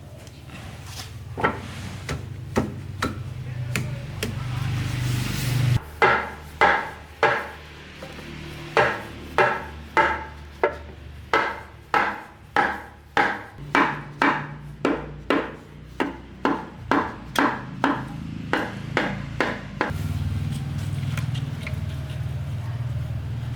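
Hammer blows with a ringing tone, struck in a steady series of about two a second for most of the stretch, with a few scattered knocks before it. A low steady hum runs underneath, strongest before and after the hammering.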